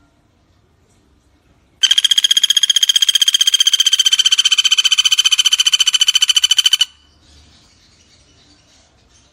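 Pelatuk bawang woodpecker giving one long, rapid rattling call of evenly repeated notes, starting about two seconds in and lasting about five seconds. Faint insect chirping before and after.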